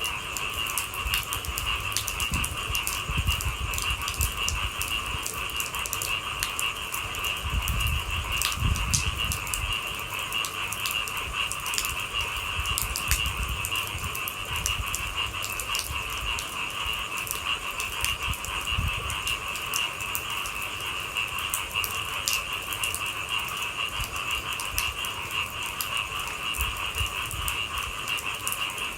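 A steady night chorus of calling animals, a continuous high trilling that never breaks, with scattered light raindrop taps. Low, uneven rumbling underneath comes and goes.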